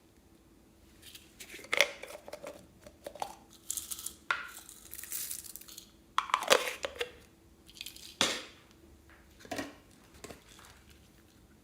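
Close-miked hand handling of slime and its plastic add-ins: an irregular run of short crackling, clicking and squishing bursts, the loudest about two seconds in, past the middle and near eight seconds.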